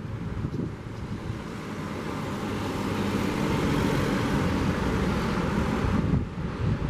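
A car driving past, its engine and tyre noise swelling to a peak mid-way and dropping away about six seconds in, over wind buffeting the microphone and the sound of surf.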